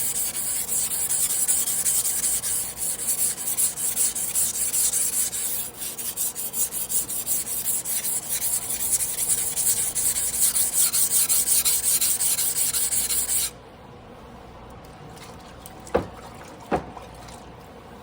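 A carbon-steel sashimi knife blade ground by hand on a whetstone, a fast scraping in quick back-and-forth strokes. The grinding stops suddenly about three-quarters of the way through, followed by two light clicks.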